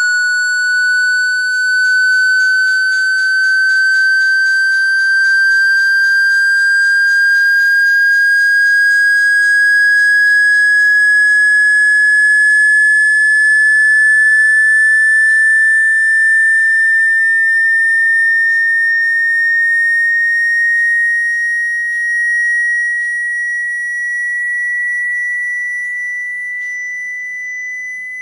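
A steady, high whistling tone that rises slowly and evenly in pitch, with fast faint ticking under it for the first ten seconds or so.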